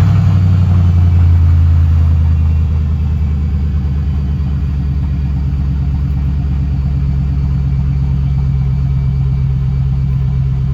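Chevy truck's 4.8-liter V8 idling just after being started, on fresh coil packs, plug wires and plugs with its misfire codes just cleared. It runs at a higher idle at first, then settles to a lower, steady idle about two and a half seconds in, running evenly.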